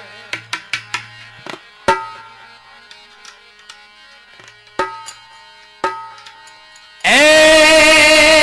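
Tabla playing a sparse lead-in: a quick run of light strokes, then single ringing strokes a second or more apart. About seven seconds in, a loud held melodic note comes in as the bhajan begins.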